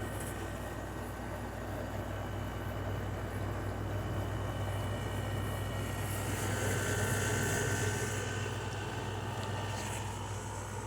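LG 6000 BTU window air conditioner running with its compressor on: a steady low hum under a wash of noise, with a brief swell of higher hiss a little past the middle.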